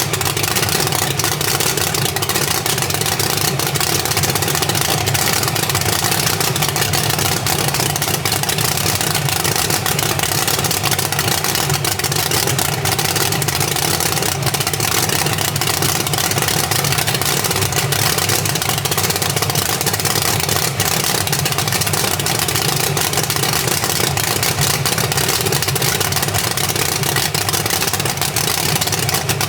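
An engine running steadily, with no change in pace.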